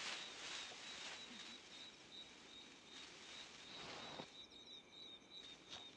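Faint natural outdoor ambience: a steady, high, faintly pulsing tone, like a distant insect or bird, over a soft rustling hiss that fades out about four seconds in.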